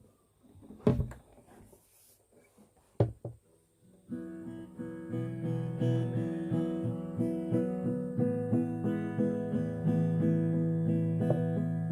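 Two sharp knocks, then acoustic guitar chords strummed in a steady rhythm from about four seconds in.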